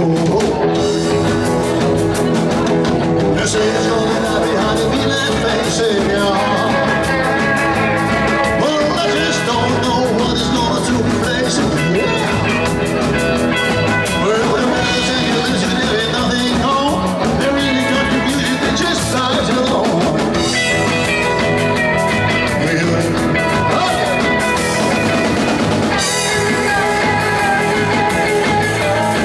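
A rock and roll band playing live, with electric guitar, bass and drum kit keeping a steady beat.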